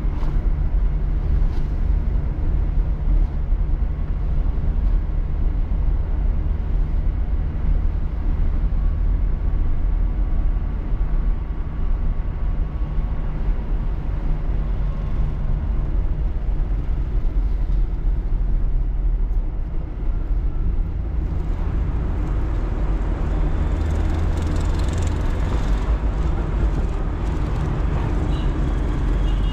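Maruti 800's 796 cc three-cylinder petrol engine running while the car drives, with steady engine drone and road noise. About 21 seconds in, the sound grows brighter, with more high-pitched hiss.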